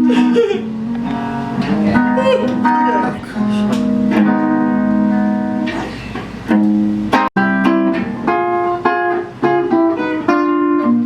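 Guitar playing chords in an instrumental passage of a pop song, with a brief dropout about seven seconds in.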